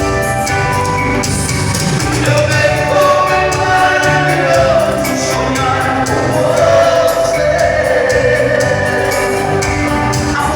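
Live band playing a song with a steady beat and strong bass, with singing over it.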